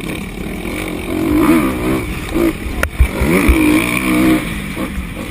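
Motorcycle engine revving in repeated blips, its pitch rising and falling several times, with a sharp click about three seconds in.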